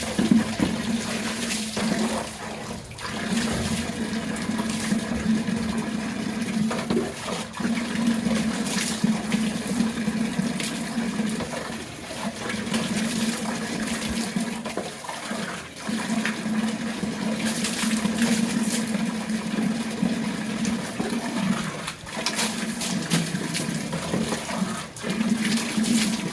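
Running water splashing steadily, broken off briefly several times, at the start of a motorbike wash.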